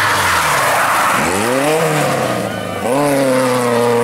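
Rally car engine braking into a corner with a rush of tyre noise, then accelerating hard away, its revs climbing twice with a gearshift between.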